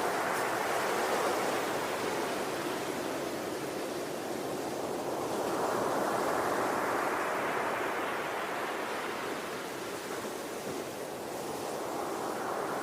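Ocean waves rolling in and washing back, a steady rush that swells and fades about every six seconds.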